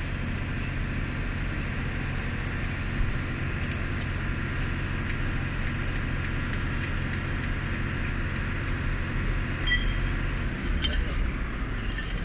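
Large bus diesel engine running steadily with a low hum, with a few light clinks near the end.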